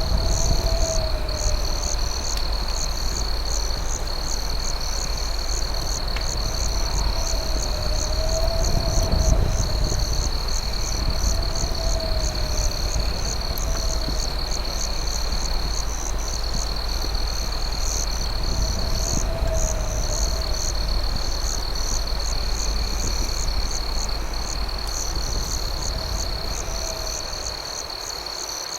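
Night chorus of crickets: a steady high trill with rapid pulsing chirps above it. A lower warbling call comes back every few seconds, over a steady low rumble.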